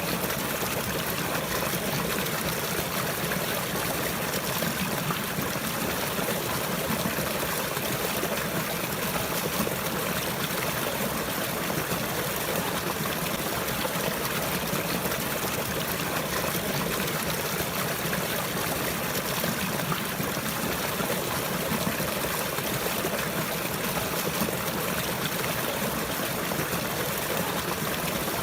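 Water trickling and flowing steadily, a constant even rush with no breaks or changes.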